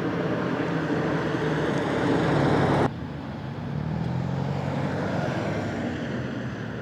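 Sports car engines driving in at low speed: one loud engine runs until it cuts off abruptly about three seconds in, then a quieter engine whose pitch rises and falls gently.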